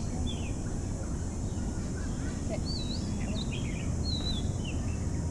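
Small birds chirping: quick whistled chirps and short rising and falling notes, several overlapping, over a steady low background rumble.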